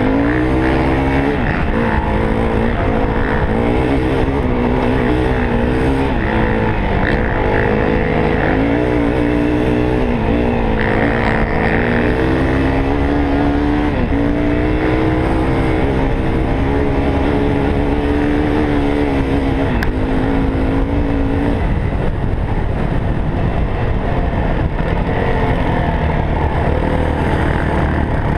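Four-stroke dirt bike engine under way, its note climbing and dropping again and again as the throttle opens and closes, over a steady low rushing noise. For the last several seconds the engine note is less distinct.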